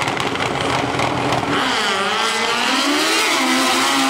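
Drag racing motorcycle engine running rough and crackly, then about a second and a half in its note climbs and wavers as the bike revs up and accelerates, settling on a high steady tone near the end.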